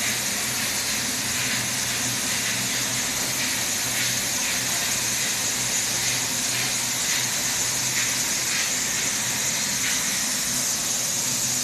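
Steady boiler-room background noise: an even, high hiss over a faint low hum, with no change in level.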